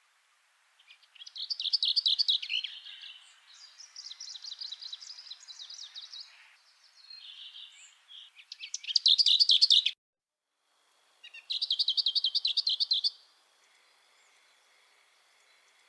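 Songbirds singing in bursts of rapid, high trilled phrases. One loud trill cuts off suddenly about ten seconds in, and a last trill follows shortly after.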